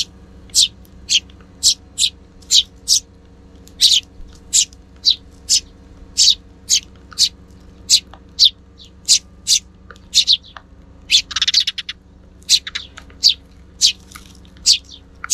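Sparrows, fledglings among them, chirping over and over in short high calls, about two a second, with a brief burst of rapid chatter about three quarters of the way through.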